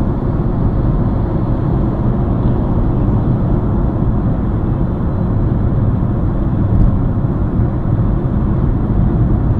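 Steady engine and road noise of a moving car, a continuous low rumble with no impacts, heard from inside the car on a dashcam.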